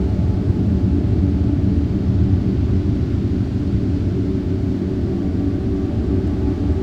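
Ambient drone music: a steady, low rumbling drone with several sustained low tones layered over it.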